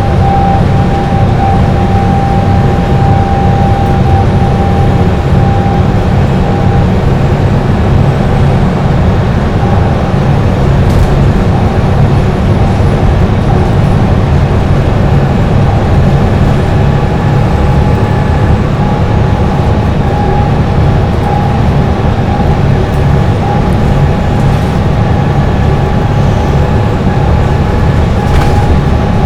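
Dennis Trident double-decker bus engine running steadily at highway speed, heard on board. A thin high whine sits over the deep engine note, fading about a quarter of the way in and returning faintly later.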